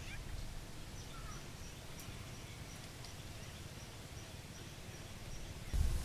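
Faint outdoor ambience: a low steady rumble with faint thin bird chirps, including a quick run of short high notes about a second in. Near the end a louder low rumble sets in suddenly.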